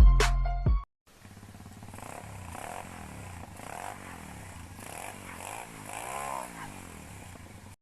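Single-cylinder four-stroke 140cc pit bike engine running, its pitch rising and falling several times with the throttle, with the biggest rev up and back down near the end. The first second is the tail of a louder music track that cuts off abruptly.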